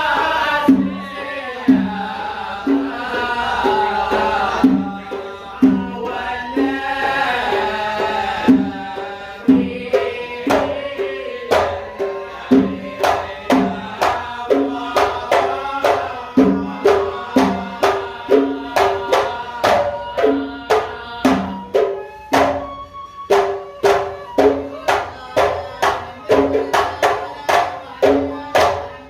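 Live band music: a wavering melodic introduction, then hand drums come in about nine seconds in and keep a steady beat under the melody.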